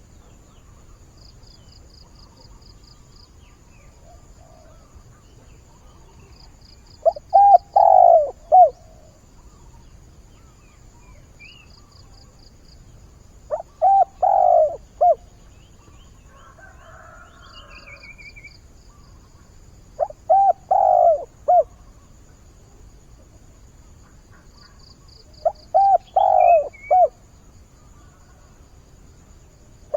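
Spotted dove cooing, a call to find a mate: four phrases of several low coos each, about six seconds apart. Faint high trilling sounds between the phrases.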